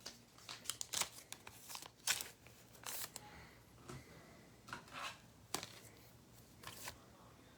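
Trading cards and their plastic packaging being handled: a faint, irregular series of quick rustles, slides and crinkles as cards are shuffled and sleeved or a pack wrapper is worked open.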